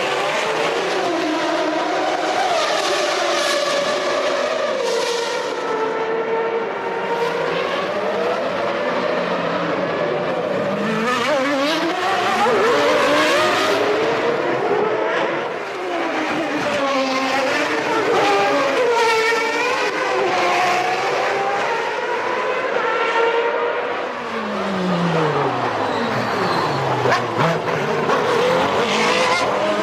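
Several 1993 Formula One cars racing, their engines screaming at high revs, the pitch climbing and dropping through quick gear changes as cars pass one after another. About 25 seconds in, one engine drops sharply in pitch, braking hard and downshifting.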